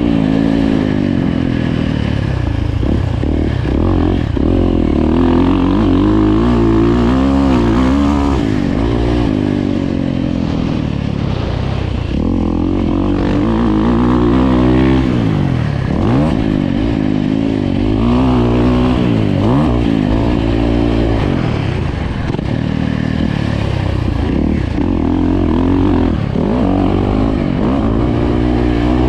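Dirt bike engine revving up and down as it is ridden, its pitch climbing and dropping repeatedly every second or two, over a steady low drone.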